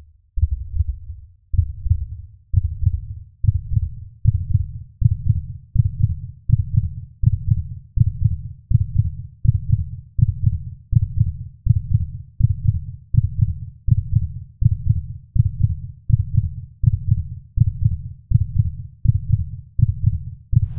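A steady low thumping beat, about four pulses every three seconds, each deep and fading before the next, like a heartbeat.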